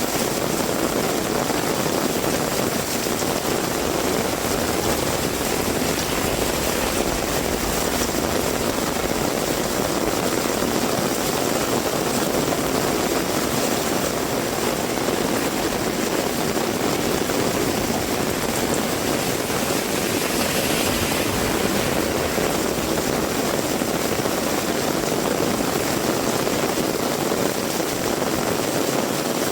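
Heavy rain falling steadily, a dense even hiss with a strong low drumming body and no let-up.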